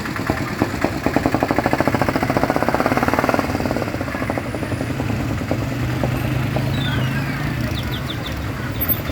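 Street traffic with a motor vehicle's engine running close by: a rapid, even pulsing for a few seconds, then a low steady hum.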